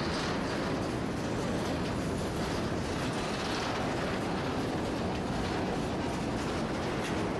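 Freight train rolling along the track: a steady, even noise of wheels on rail.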